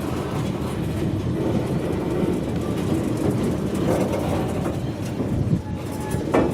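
Train rolling past, a steady rumble of wheels on the rails with scattered clacks and a sharper clack near the end.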